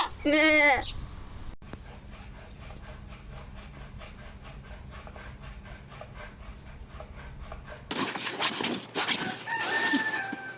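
Farm animal calls from separate clips. A loud, wavering call ends under a second in, and a held call slides slightly down in pitch near the end. Between them is a quieter stretch with faint regular ticking.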